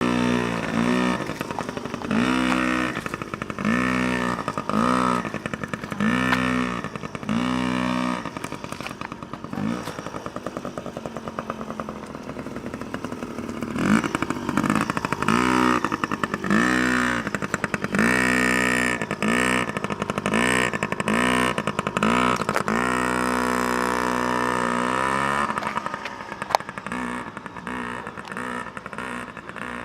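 Small dirt bike engine being ridden: the throttle is blipped in short bursts, the pitch rising with each one, then held steady for a few seconds before easing off near the end. A single sharp click about two thirds of the way in.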